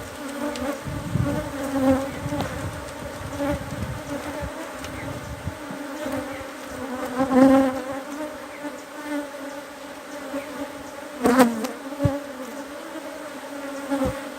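Honeybees of an opened hive buzzing: a steady hum of many bees that swells louder now and then as bees fly close. The colony is a defensive one that cannot be worked without gloves.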